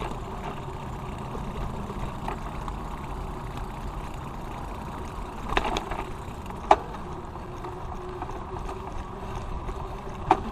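Bicycle ride in progress: a steady low rumble of the tyres rolling on pavement, with a few sharp clicks or rattles from the bike, mostly around the middle and one near the end.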